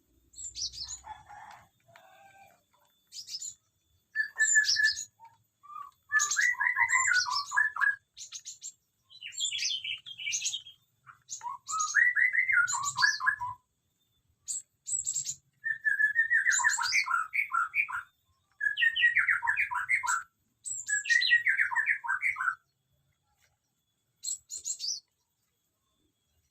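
Small aviary birds chirping and singing. A warbling song phrase repeats every few seconds, with sharp high chirps in between.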